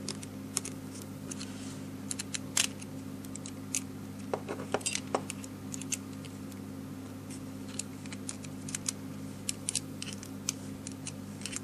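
Irregular small clicks and taps of metal and plastic parts being handled while the bolt through a 3D-printed U-joint is tightened and the joint worked back and forth to check how freely it pivots. A steady low hum runs underneath.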